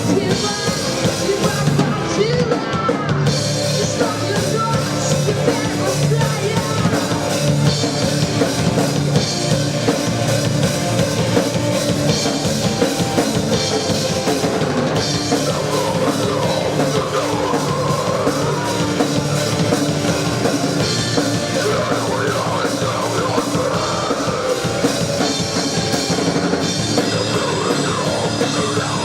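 Live rock band playing: distorted guitars over a driving drum kit, with a singing voice over the second half.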